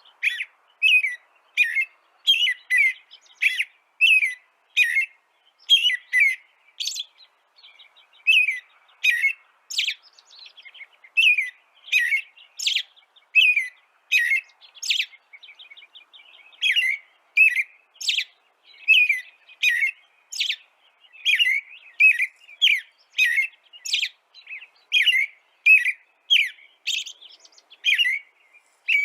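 A small songbird chirping over and over: short, sharp chirps at about two a second, keeping up an even pace.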